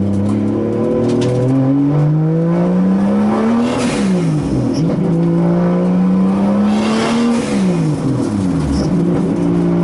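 Nissan 240SX drift car's swapped Toyota 2JZ-GTE inline-six running under throttle. The revs climb steadily, fall away sharply and pick back up about four seconds in and again near eight seconds, then hold steady.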